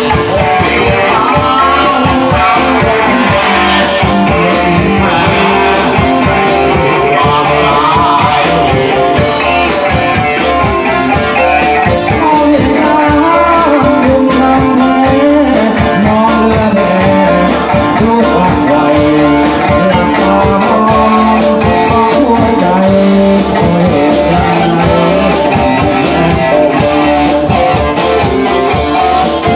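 Band music with guitar and a steady beat.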